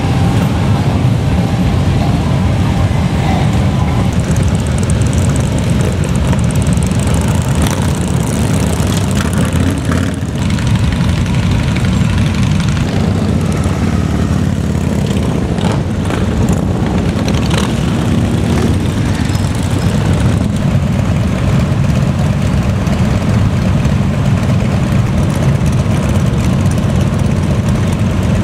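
A dense, steady, low engine noise from many motorcycles riding past together in a continuous parade stream.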